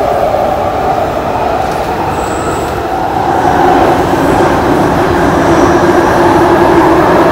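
Passenger train running on the track, loud, with a steady whine that gives way to a lower steady tone about halfway through.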